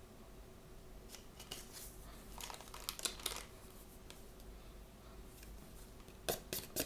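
Blind-bag packaging being handled and opened: rustling and crinkling of plastic for a second or so midway, then a few sharp clicks near the end.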